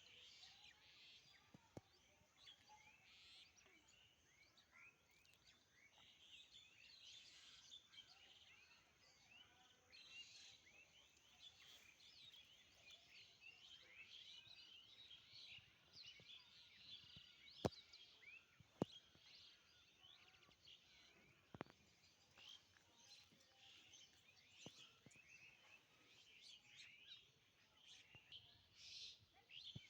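Faint chorus of many small birds chirping continuously, with a few sharp clicks, two of them close together past the middle.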